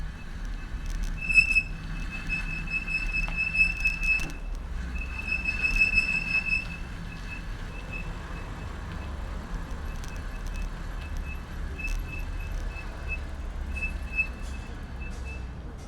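Bicycle brake squealing at one high pitch: held for about three seconds, again for about two, then in short regular chirps, over a steady low rumble of road and wind from the moving bike.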